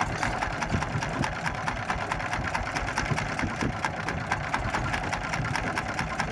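Small fishing boat's engine running steadily with a rapid, even beat.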